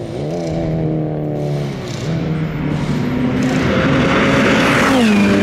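Ferrari 488 Pista's twin-turbo V8 accelerating hard, its pitch climbing, with an upshift about two seconds in and a second climb. It grows louder as it approaches, and its pitch drops about five seconds in.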